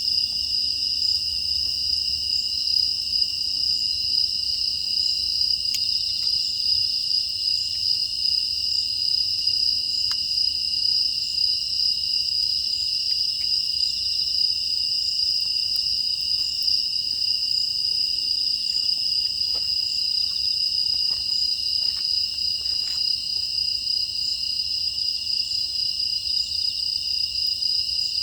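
Steady, high chorus of crickets and other grass insects, with a few faint ticks and crackles scattered through it.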